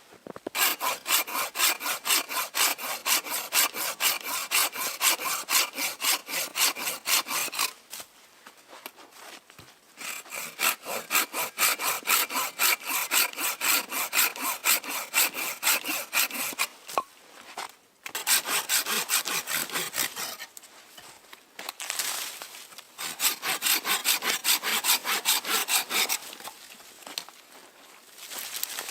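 Hand saw cutting through wood in three bouts of quick, even back-and-forth strokes, with short pauses between the bouts.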